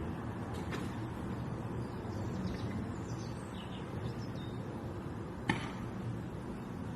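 A few faint, short, high bird chirps over a steady low rumble like wind on the microphone, with one sharp click about five seconds in.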